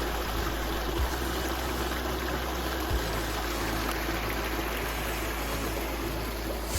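Creek water flowing steadily over rocks in a gorge, an even rushing sound.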